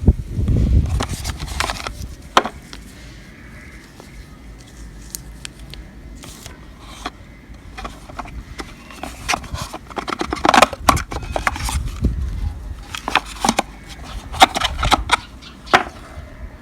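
Handling noise: irregular taps, clicks and scrapes with rustling, as of objects and packaging being handled by hand.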